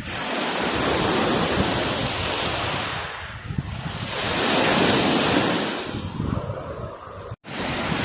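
Black Sea surf: waves breaking and washing up the shore in two surges about four seconds apart, with wind buffeting the microphone. The sound drops out for an instant near the end.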